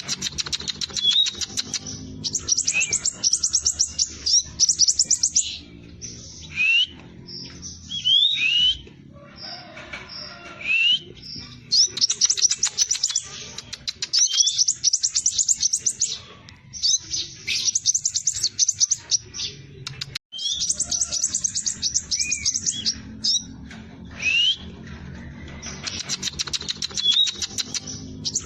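Scarlet minivet (sepah raja) singing in fast rolling bursts: dense, rapid, high trills lasting a second or two, repeated every few seconds, with short rising whistles between them. A faint low hum runs underneath.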